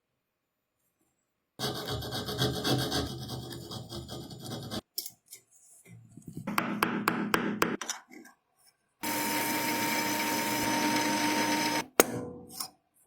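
Abrasive rubbing and scraping on a workpiece in separate short stretches, with silent gaps between them. Near the end comes a steadier, even run of about three seconds that stops abruptly.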